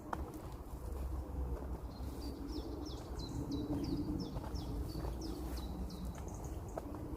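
A songbird singing a run of repeated high, downward-slurred notes, about three a second, starting about two seconds in and lasting about four seconds, over a steady low outdoor rumble.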